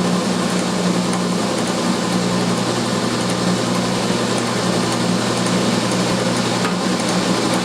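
Belt-driven table saw running steadily on its electric motor, a constant hum. The newly machined motor pulley runs true, so the saw is running super smooth, with only a little vibration from the belt.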